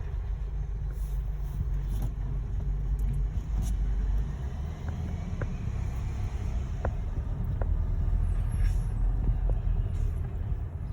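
Garbage truck engine running with a steady low rumble, with a few light clicks and knocks about halfway through.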